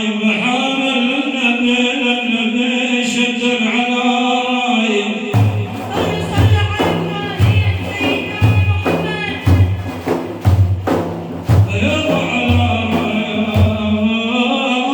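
Madih praise singing: a man's voice holds long melodic lines, then about five seconds in a hand drum comes in with heavy beats about once a second and sharper slaps between them, and the singing returns near the end over the drum.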